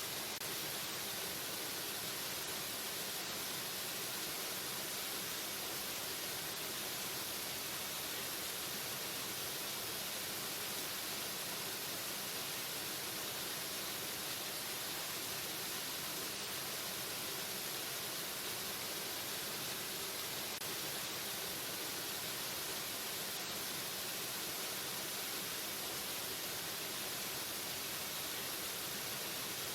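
Waterfall: the steady, unbroken rush of falling water, a constant hiss weighted toward the high end.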